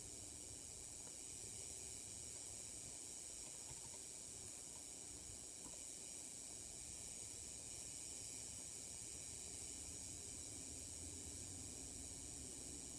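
Apple 27-inch LED Cinema Display giving off a steady, high-pitched buzz over a faint hiss. It is an unwanted buzzing noise from the display.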